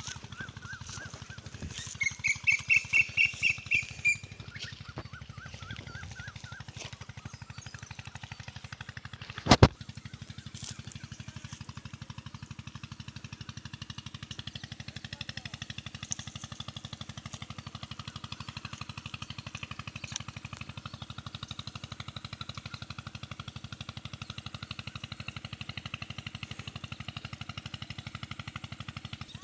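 A bird calling a couple of seconds in: a quick run of about nine sharp, evenly spaced notes, with shorter repeated bird notes just before and after. A single sharp knock comes near the ten-second mark, over a steady low hum.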